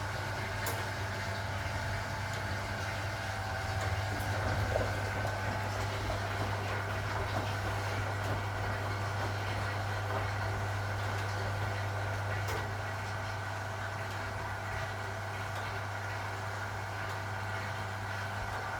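1961 AEG Lavamat Noris washing machine running steadily, its motor giving a constant low hum with a couple of faint ticks.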